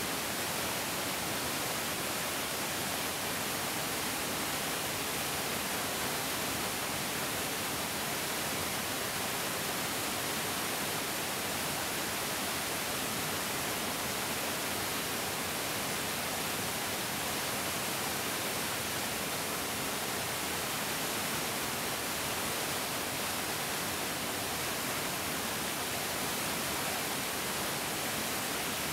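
A large mountain stream rushing steadily over rocks, an even, unchanging hiss of flowing water.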